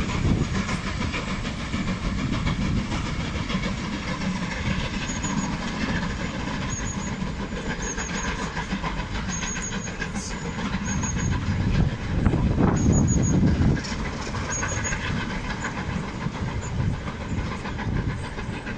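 Passenger coaches of a steam-hauled train rolling past. About twelve seconds in it grows louder for a couple of seconds as the two Class 33 diesel locomotives at the rear pass.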